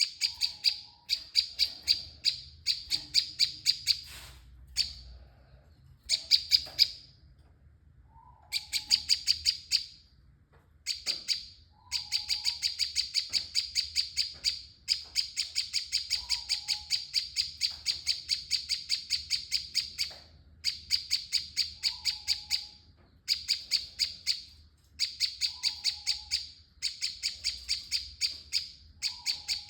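Young prinia (perenjak) giving its rapid rattling 'ngebren' call: fast runs of sharp, high ticking notes, about ten a second, in bouts of one to several seconds with short breaks between them.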